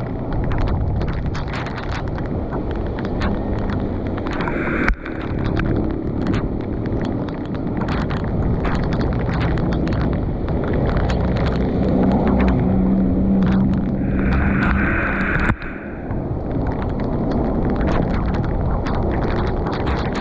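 Heavy rain and storm water rushing, with many sharp taps and knocks throughout and wind buffeting the microphone. The sound breaks off abruptly twice, about 5 seconds in and again near the end.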